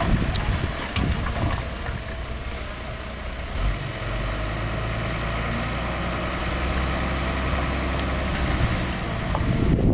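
Heavy diesel engine of earthmoving machinery running steadily with a low hum, with a short thump about four seconds in and a few faint clicks.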